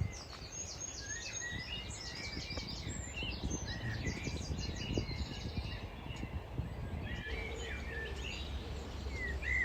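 A Eurasian blackbird singing in short whistled phrases mixed with fast, high twittering, including the repeated call heard as "hurdy-gurdy". A low rumble of wind on the microphone runs underneath, stronger in the second half.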